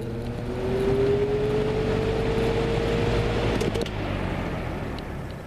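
Lasko 3733 box fan starting up on its low setting: a motor hum that rises in pitch with a growing whoosh of air as the blades spin up. About three and a half seconds in there are a couple of clicks, the hum stops and the air noise winds down.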